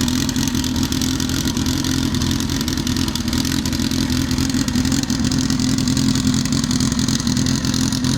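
Opel Corsa race car engine running at a steady speed, loud and even, with no clear revving up or down.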